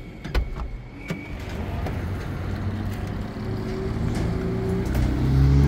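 A few clicks near the start, then a motor vehicle's engine running, growing steadily louder toward the end.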